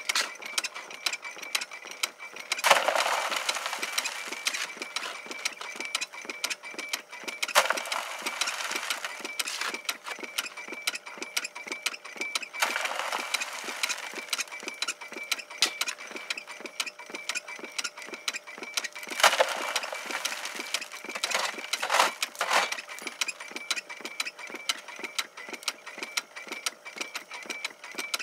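Keene bellows drywasher running, its engine-driven bellows and riffle tray making a fast, even mechanical clatter with a faint steady whine. Five or six times a louder hissing rush starts suddenly and fades as dirt and gravel are fed through it.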